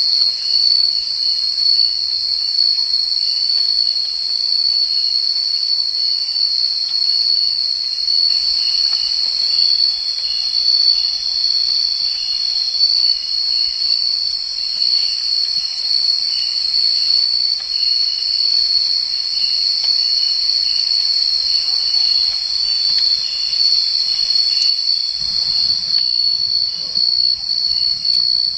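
Insect chorus: a loud, steady high-pitched trill that does not let up, with a fainter second call pulsing evenly beneath it. Lower, rougher noises join near the end.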